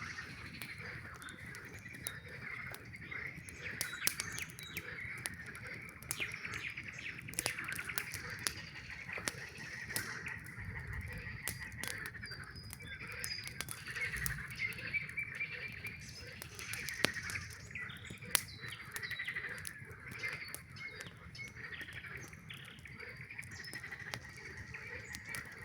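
A chorus of frogs calling continuously in a dense trilling mass, with the sharp crackles and pops of a campfire scattered through it.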